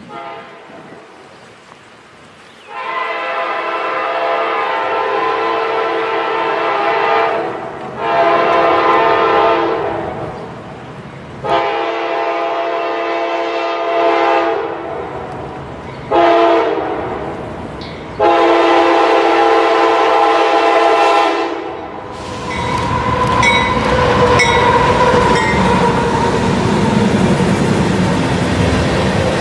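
A CSX freight locomotive's multi-chime air horn sounds a string of blasts, long ones with a short one near the end, and the last is a long blast. Then the oil train's locomotives and tank cars roll close past, their wheels clacking over the rail joints.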